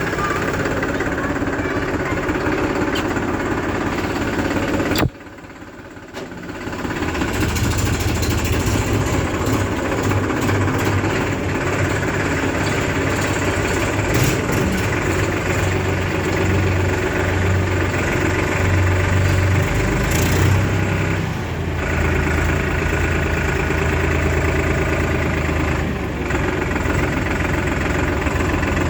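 Diesel engines running steadily, as a backhoe loader loads mud into tractors. About five seconds in the sound drops suddenly for a couple of seconds, then a deep steady engine hum returns and holds.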